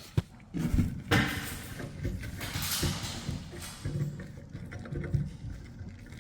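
A hand digging debris out of a kitchen garbage disposal. There are sharp clicks and knocks, low scraping, and two short rushes of hiss.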